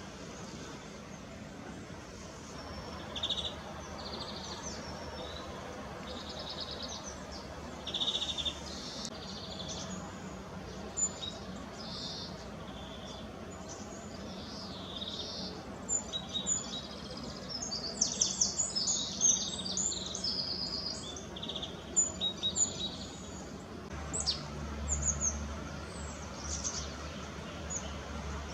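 Small birds at a feeder chirping and calling in short high notes, sparse at first and becoming busy and overlapping about halfway through, over a steady low background hum.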